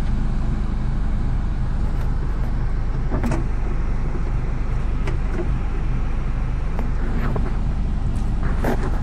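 A car's engine and road noise heard from inside the cabin: a steady low rumble, with a few light clicks and knocks.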